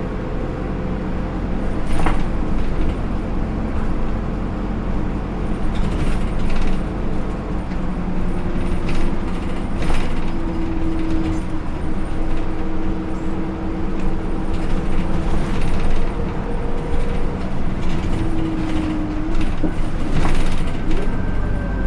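Hino Rainbow II bus's Isuzu 4HK1-TCH turbo-diesel engine and Aisin automatic transmission running under way, heard from inside the bus: a steady low drone with a whine that shifts in pitch, and scattered knocks and rattles from the body.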